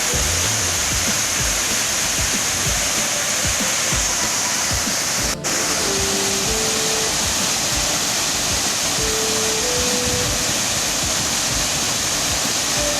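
Steady rush of a waterfall in heavy flow, carrying far more water than usual, with faint sustained notes of background music. About five seconds in, the sound cuts out for an instant.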